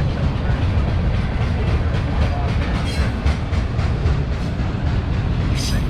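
Freight cars of a CSX manifest train rolling past: a steady low rumble of steel wheels on rail with scattered clicks, and a brief high screech near the end.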